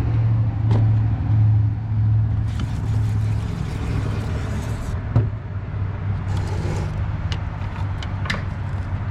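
An engine idling steadily, with a hand-pumped sprayer hissing as it sprays soapy water onto the truck: one long spray of about two and a half seconds, a shorter one later, and a few light knocks.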